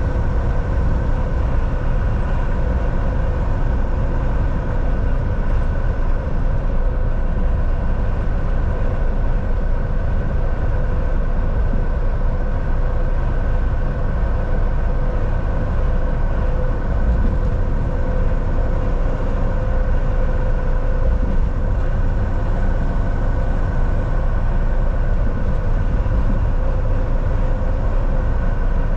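Volvo VNL 760 semi-truck cruising, heard from the driver's seat: a steady low engine drone and tyre and road rumble, with a constant hum from the engine and drivetrain.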